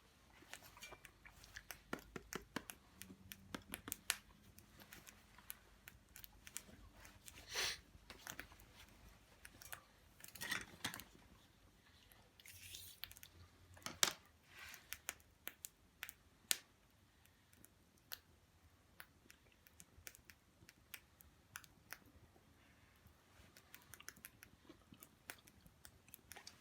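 A person chewing and eating food, with scattered small clicks and crackles.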